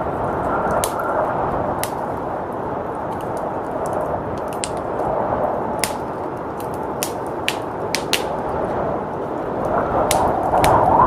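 Wood fire crackling, with sharp pops scattered irregularly about once a second, over a steady rushing blizzard wind that swells near the end.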